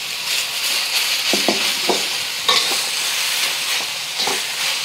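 Ground pork sizzling in hot oil with ginger and garlic in a wok, a steady frying hiss. A metal wok spatula scrapes and clinks against the pan several times as the meat is stirred and broken up.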